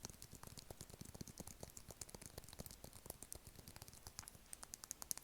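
Close-miked ASMR mouth sounds: a rapid, unbroken string of small wet clicks and smacks, several a second, starting and stopping abruptly.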